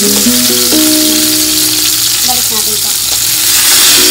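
Stuffed bell pepper pieces sizzling in hot oil in a nonstick wok while a spatula stirs and turns them. Background music plays over about the first second.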